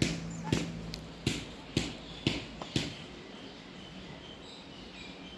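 A series of six sharp knocks, about two a second, that stop about three seconds in. Faint high chirps follow over a quiet background.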